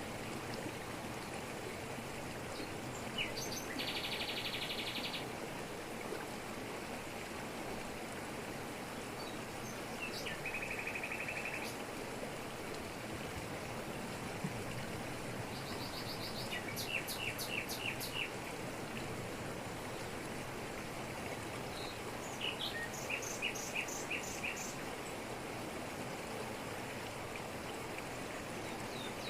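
Steady rush of a waterfall falling over rocks, with birds calling over it: a rapid high trill about 4 seconds in and another about 10 seconds in, then runs of short repeated chirps around 16 to 18 seconds and again around 22 to 25 seconds.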